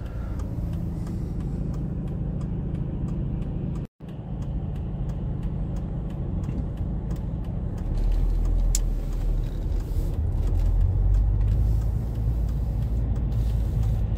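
Alfa Romeo 159's engine and road noise heard from inside the cabin: a steady low running sound that cuts out for an instant about four seconds in, then grows louder and deeper from about eight seconds in as the car drives on.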